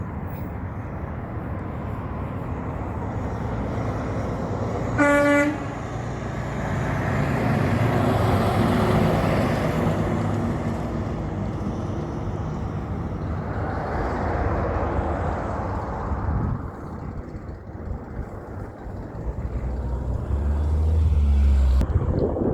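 Heavy trucks driving past, their diesel engines rumbling and swelling as each one goes by. About five seconds in there is one short horn blast, and near the end a deep engine rumble builds before cutting off.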